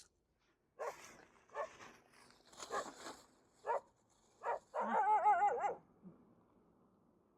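Dogs barking in about six short barks, then a longer wavering whine a little before six seconds in, as they squabble over food.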